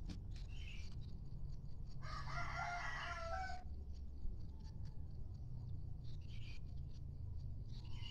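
Village rooster (ayam kampung) crowing once, about two seconds in, for about a second and a half.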